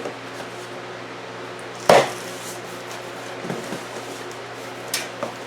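Knocks and clunks from handling the boxed steel scissor lift jack and its packaging: one loud sharp knock about two seconds in, a softer one later, and another sharp knock near the end, over a steady low hum.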